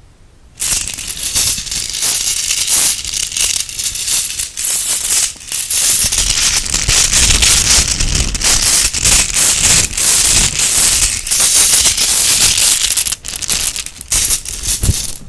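Small Halloween toy bone ornaments rattling and clicking against each other as they are handled and shaken, a dense continuous clatter that turns to scattered clicks near the end.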